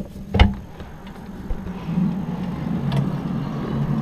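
A sharp knock as a window is opened, then a low, steady hum from outside that swells up and holds. It is the unexplained 'strange noise' of the kind reported in many places, and its source is unknown.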